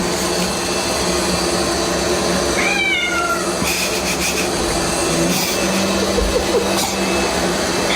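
A cat meows once, a falling call about three seconds in, over a steady mechanical drone.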